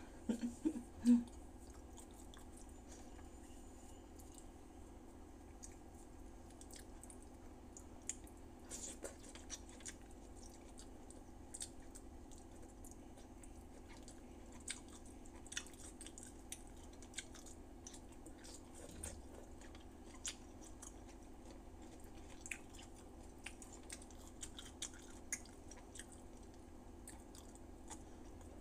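A person eating rice with her fingers: soft chewing and wet mouth and lip sounds, a scatter of small clicks, over a steady low background hum. A short louder sound comes about a second in.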